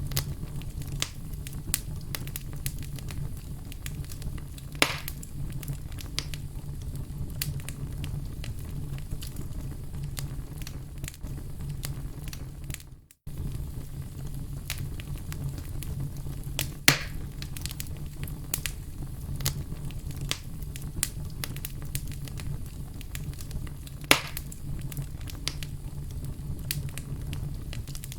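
Wood fire crackling steadily over a low rumble, with dense small snaps and a few louder pops. The sound cuts out briefly about halfway through, then resumes.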